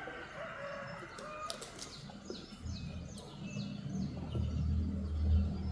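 Small birds chirping in short, repeated falling notes. A low rumble builds from about halfway through and becomes the loudest sound.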